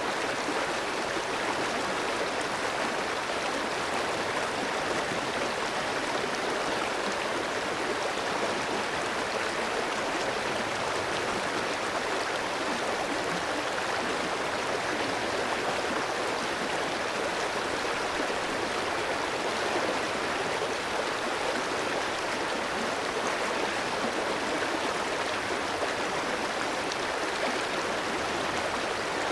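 Clear, shallow stream flowing steadily over rocks, an even rushing and babbling of water that does not change.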